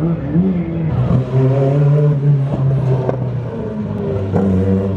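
Rally car engine running at raised revs, its pitch stepping up just after the start and dropping about three and a half seconds in, with a few short sharp pops.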